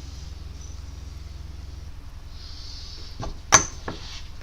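A few short, sharp knocks over a low steady hum, the loudest about three and a half seconds in.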